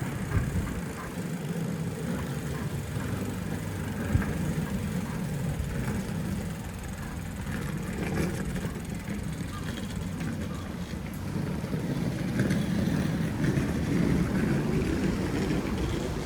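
City traffic and road noise heard from a moving bicycle: a steady low rumble of wind and road, with some passing traffic and a few light clicks. It grows a little louder in the last few seconds.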